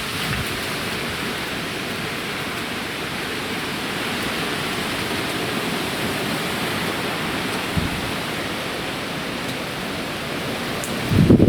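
Steady rush of hurricane rain and wind, an even hiss. Near the end a gust starts buffeting the microphone.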